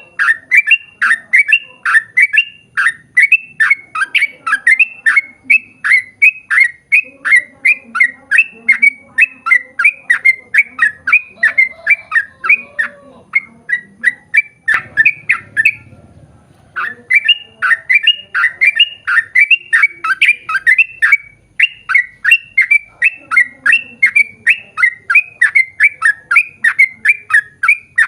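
Yellow-vented bulbul (trucukan) singing a long, fast run of short, sharp repeated notes, about three a second, with one brief break in the middle.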